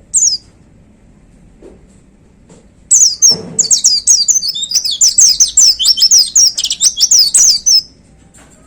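A white-eye (pleci) singing: one short high call at the start, then about a second later a fast, loud run of sharp, high, downward-sliding notes that lasts about five seconds and stops abruptly.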